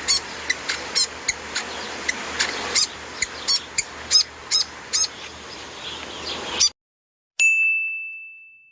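Rufous fantail calling: short high chirps repeated about twice a second over a background hiss, cutting off suddenly. Then a single ding rings out and fades away near the end.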